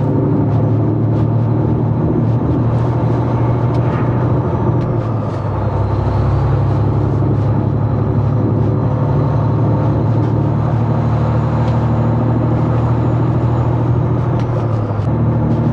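Semi-truck engine running steadily under way, heard from inside the cab, with a brief dip in level about five seconds in.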